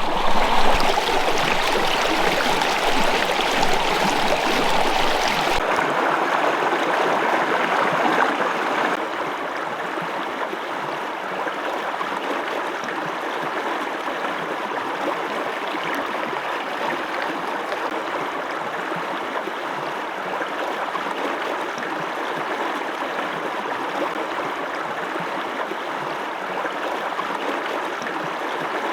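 Fast-flowing brook: a steady rush of running water. It is louder for the first few seconds, changes abruptly about six seconds in and drops again near nine seconds, then runs on evenly.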